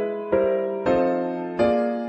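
Instrumental music: an electric-piano-like keyboard playing gentle chords, a new chord struck about every two-thirds of a second and ringing away between them.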